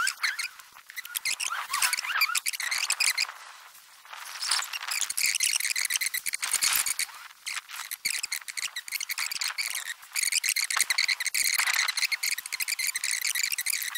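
Birds chirping and singing: a dense stream of quick, high calls that eases off briefly about four seconds in.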